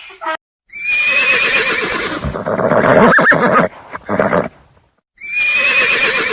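Horse whinnying: a long call that starts high and wavering, then drops lower, followed by a shorter burst. After a brief pause the same whinny begins again about five seconds in.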